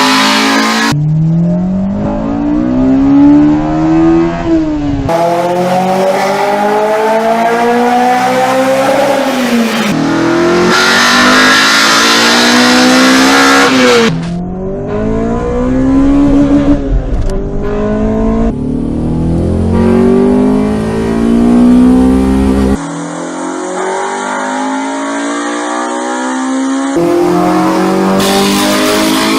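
High-revving Honda VTEC naturally aspirated engines accelerating hard, in several separate recordings one after another. Each engine's note climbs steeply in pitch, then drops at a gear change and climbs again.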